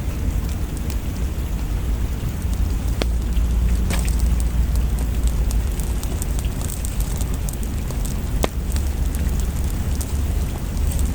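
Rain falling with a fireplace crackling over it: a steady hiss of rain over a low rumble, broken by a few sharp pops from the fire, one about three seconds in, one at four seconds and a louder one after eight seconds.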